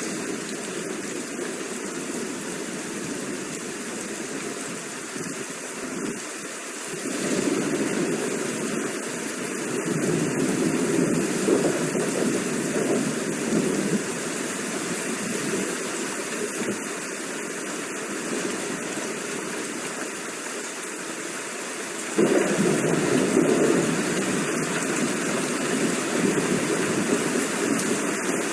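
Steady rain falling, with deeper rumbles of thunder swelling in twice, the second starting suddenly about two-thirds of the way through.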